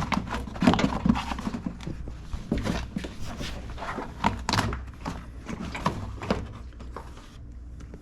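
Irregular knocks, taps and clicks of hands working on a car door while the plastic rain shield is fitted back over the inner door panel and pressed onto its sticky tar sealant, thinning out near the end.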